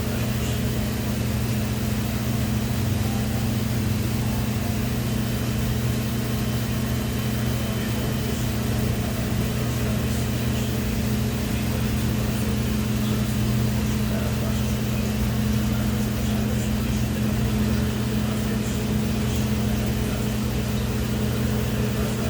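A steady, even machine hum with no change in pitch or level.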